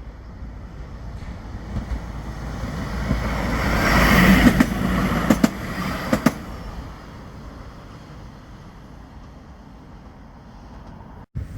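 A Bombardier Flexity 2 tram passing by: the sound swells to its loudest about four seconds in, with a few sharp clicks, then fades away.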